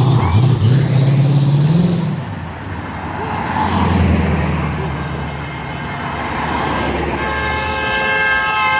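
A car engine revving up in pitch, then running steadily, followed near the end by a car horn sounding one held note for about two seconds.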